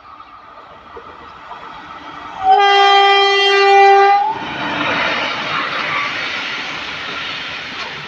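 An approaching electric freight locomotive sounds its horn in one long, loud blast about two and a half seconds in. The train then passes close by, with the steady noise of the locomotives and covered goods wagons running over the rails.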